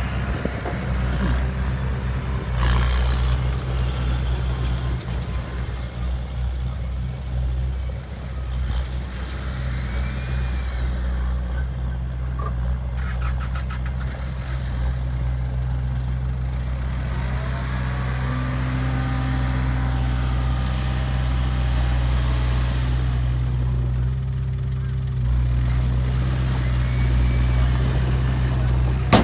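Heavy diesel engine running steadily with a deep, even rumble. A few sharp clicks come about twelve seconds in.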